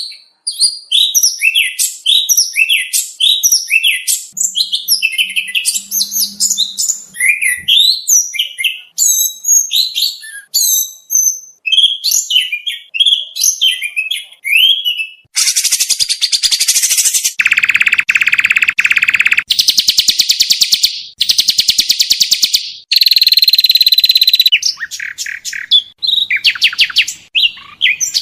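Oriental magpie-robin (kacer) song, loaded with mimicked phrases of other birds: a fast, varied run of high chirps and whistles, then from about halfway loud buzzy rattling trills and a held whistle.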